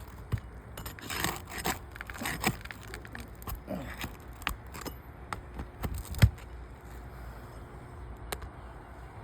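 Hand tool working under asphalt roof shingles: a run of scrapes and sharp clicks as shingles are pried loose and nails worked out, with one louder knock about six seconds in.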